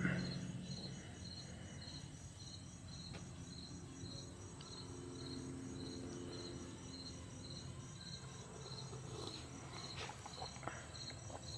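A cricket chirping steadily in a high pitch, about two chirps a second, over a faint low hum.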